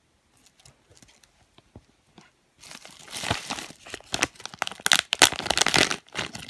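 Blind-bag packaging of a small squishy being handled and torn open: a few faint ticks, then from about two and a half seconds in, loud, dense crinkling and tearing.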